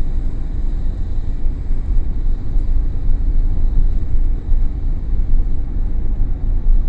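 Steady low rumble of a vehicle driving on the road, heard from inside the cab: engine and tyre noise.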